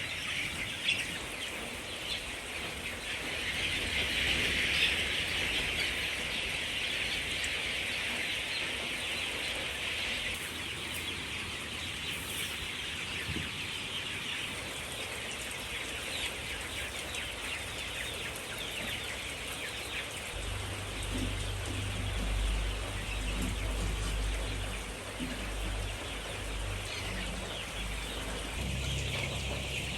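Chickens clucking and chirping without a break, with a low rumble joining about two-thirds of the way through.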